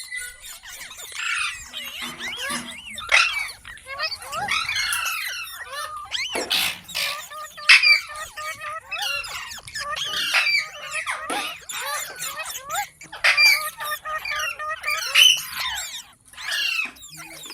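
A pet parrot chattering: a steady run of quick squeaks, chirps and squawks that rise and fall in pitch, with a few louder sharp squawks in the middle.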